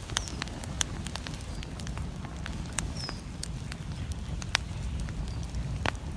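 Wood fire crackling, with irregular sharp pops and snaps, over a steady low rumble of storm wind.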